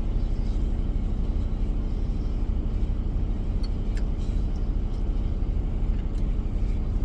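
Steady low rumble of a semi truck running, with a few faint clicks.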